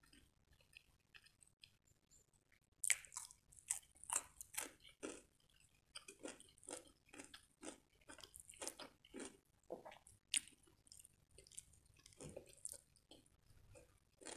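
Close-miked biting and chewing of a raw cucumber: a sharp crunch about three seconds in, then fast crunchy chewing that thins to scattered bites near the end.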